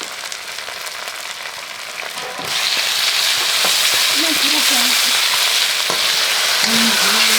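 Food frying in hot oil in a pan, sizzling; the sizzle jumps suddenly much louder about two and a half seconds in and stays loud.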